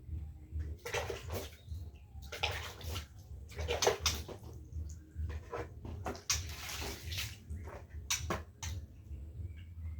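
Water splashing in short, irregular bursts.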